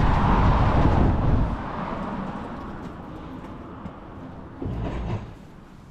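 A passing vehicle rumbling, then fading away over a few seconds.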